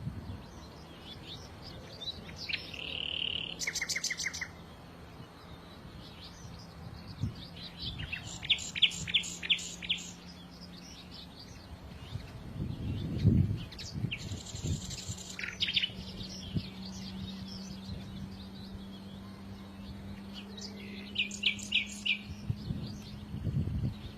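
Songbirds chirping and trilling in several short bouts of quick high notes, over a faint steady low hum. There are two brief low rumbles, one about halfway through and one near the end.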